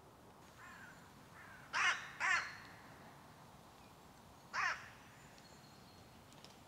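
A bird calling: two fainter calls, then three loud short calls, two close together about two seconds in and a third near the five-second mark.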